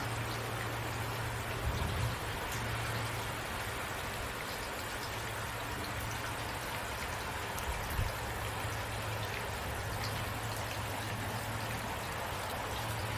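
Steady rain, a dense even patter of drops, with a constant low hum underneath and two soft low thumps, about two seconds in and again about eight seconds in.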